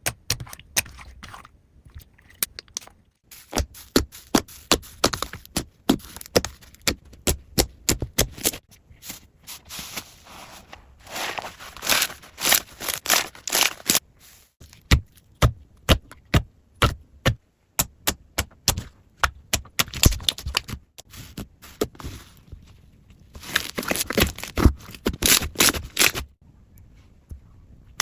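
Slime being squished and worked, giving quick runs of sticky clicks and pops in bursts with short pauses between them.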